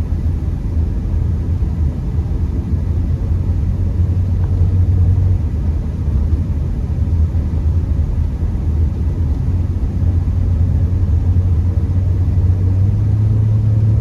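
Steady low drone of a Honda Accord's engine and tyres heard from inside the cabin while driving slowly on a snowy road. The drone rises slightly in pitch near the end.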